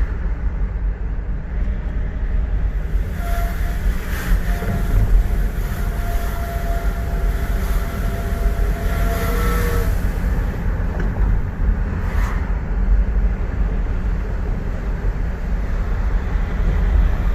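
Volvo XC90 2.4 D5 five-cylinder turbodiesel running with a low rumble, and a thin high whine over it from about three seconds in until about ten seconds in. The whine comes only under acceleration, a fault the owner cannot yet explain.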